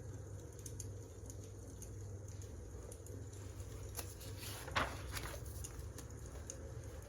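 Wood fire crackling, with scattered small pops and a louder snap about five seconds in, over a steady low hum.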